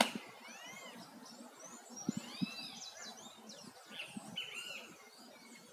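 Small birds calling from the trees: many short chirps that rise and fall in pitch, repeated on and off throughout. A single sharp click at the very start and a couple of soft low thumps about two seconds in.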